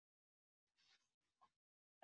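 Near silence, with faint, short bursts of mouth noise about a second in: a person chewing a soft protein cookie.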